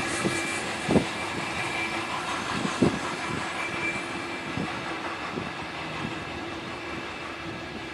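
Freight train wagons rolling past, the wheels knocking over rail joints every second or two, the rumble slowly fading.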